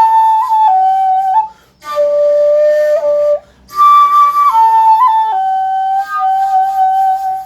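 Natural-bore (jinashi) shakuhachi played in its high register: three short phrases of held, stepping notes with brief pauses for breath between them, the last note held until it stops. It is a test-blow of the upper notes, which the maker says are hard to make resonant on an unlacquered bore; this one reaches his standard.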